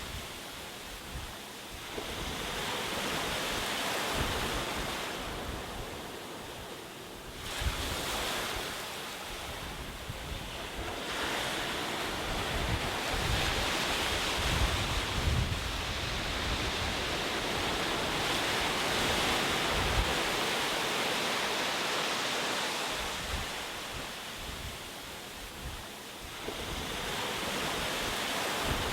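Ocean surf: waves breaking and washing ashore in successive swells, the wash rising and falling every few seconds.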